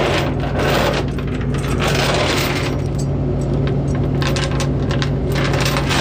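Tie-down chains clinking and rattling against metal as they are hooked onto the load on a rollback bed. Under them is the steady idle of the Hino truck's diesel engine, with the PTO still engaged.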